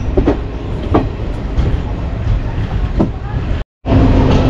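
Passenger train running, a steady low rumble with a few sharp knocks; the sound drops out for a moment near the end and comes back as a steady hum.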